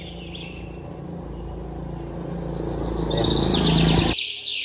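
Small birds chirping in rapid high trills, over a broad rushing noise that swells for about four seconds and then cuts off abruptly.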